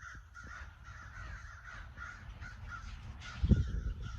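A large flock of birds in a tree calling all at once, a dense chatter of many overlapping, rapidly repeated calls. A brief low bump about three and a half seconds in.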